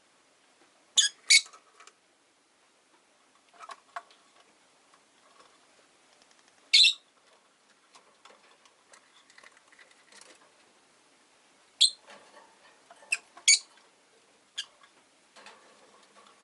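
Rosy-faced lovebirds giving short, shrill chirps: about six loud ones scattered through, one or two close together at a time, with softer clicks and rustles in between.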